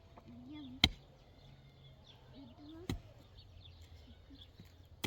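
Sharp knocks, three times about two seconds apart, the first the loudest.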